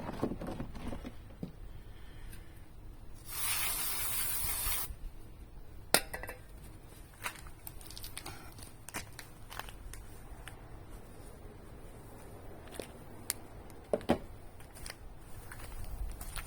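A single hiss from an aerosol spray can lasting about a second and a half, a few seconds in, among scattered light clicks and knocks of handling tools and parts.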